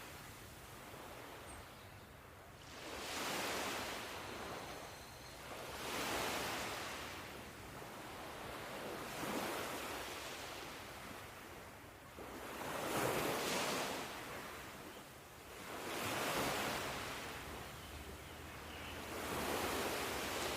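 Ocean waves breaking and washing up the shore, a steady rush that swells and fades with each wave about every three seconds.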